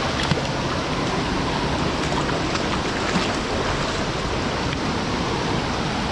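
Steady rushing noise, even throughout, with a few faint ticks.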